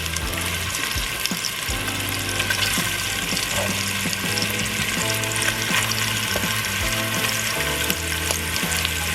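Sliced beef smoked sausage sizzling as it fries in a little oil in a pot, a steady sizzle with many small crackles and pops. A low background music track plays underneath.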